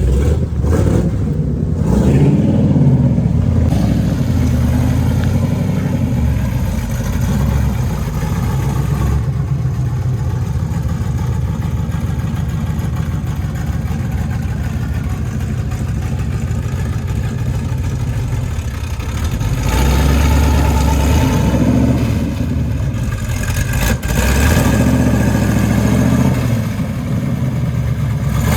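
Plymouth Road Runner's V8 running as the car is driven, its revs rising in louder spells near the start and again about two-thirds of the way through.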